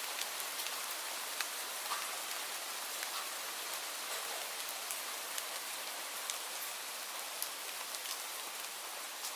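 Steady rain falling, a continuous hiss with scattered sharp drips and drop ticks.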